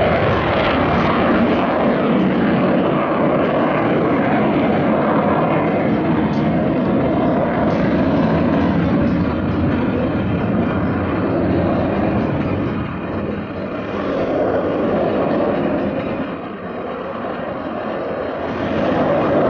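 Loud jet noise from an RAF Eurofighter Typhoon FGR4's twin EJ200 turbofans flying a display. The noise eases off somewhat about two-thirds of the way through and swells again near the end.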